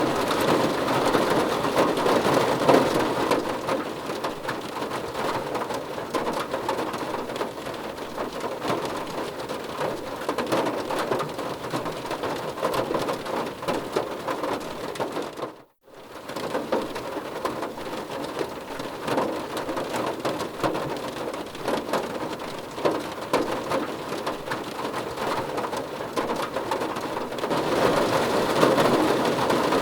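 Steady rain falling on a car roof: a dense patter of individual drops striking the metal, heavier near the start and end. About halfway through the sound cuts out to near silence for a split second, then resumes.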